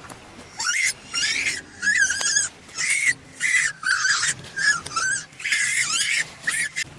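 Baby monkey crying out in a quick series of short, high-pitched calls, about two a second, each call wavering in pitch.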